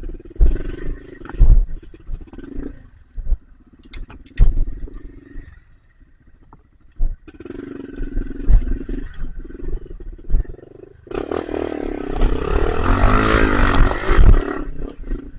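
Dirt bike engine revving in short bursts in mud, then held at high revs for about three seconds near the end, with repeated loud knocks on the microphone.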